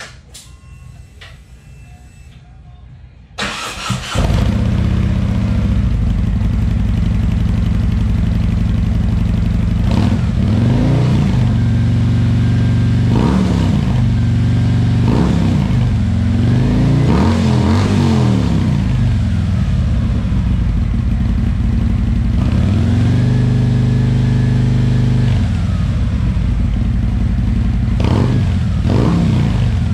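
A big touring motorcycle engine is cranked by its starter about three seconds in and catches at once, then idles loud. It is blipped in short revs several times, held at higher revs for a couple of seconds, and blipped twice more near the end.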